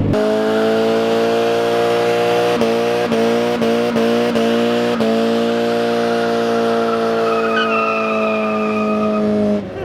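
Ford Mustang's engine held at high revs for a burnout, bouncing a few times in the middle, with a thin tyre squeal coming in near the end. The engine cuts off just before the end.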